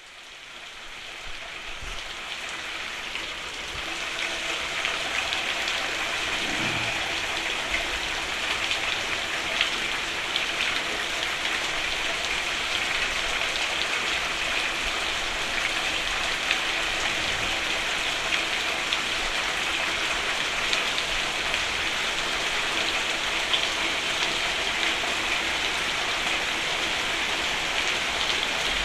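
Steady rain falling on a roof, dense with small drop hits, fading in over the first few seconds.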